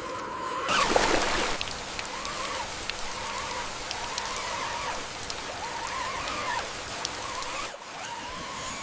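Steady rain-like hiss and patter with scattered small ticks. Over it, a small RC truck's electric motor whines up and down several times. A brief louder rush comes about a second in.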